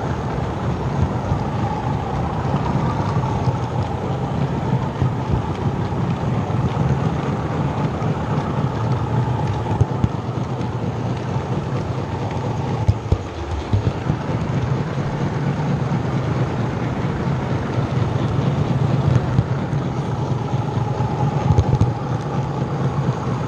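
OO gauge model trains running around the layout: a steady motor hum with a whine that swells and fades as a locomotive passes, and a few light clicks from the track.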